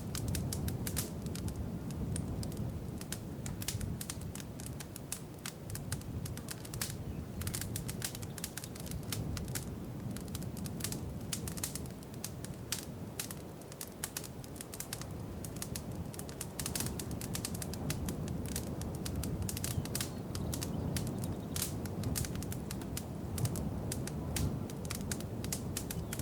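Wood fire crackling in a fireplace: dense, irregular sharp pops and clicks over a steady low rumble of burning.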